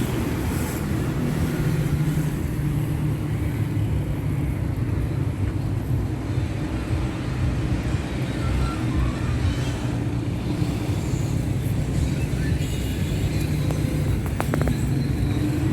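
A steady low engine hum, like a vehicle running nearby.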